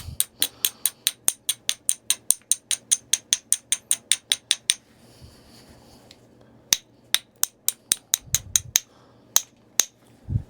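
Rapid light strikes of a knapping bopper on the edge of a quartzite point, about five sharp clicks a second for nearly five seconds. After a short pause come slower single strikes and a couple of dull thumps.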